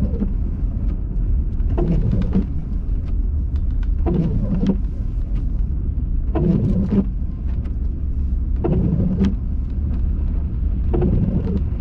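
Inside a car's cabin, the engine and tyres make a steady low rumble in a snowstorm. About every two and a half seconds a windshield wiper sweeps across the glass.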